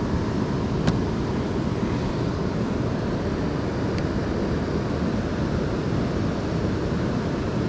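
Steady rushing noise of wind and flowing river water on the microphone, with two faint clicks, about one second and four seconds in.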